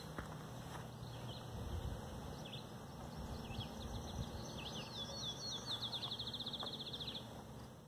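A songbird singing a few slurred, falling notes that speed up into a fast trill, over a faint steady background hiss and rumble.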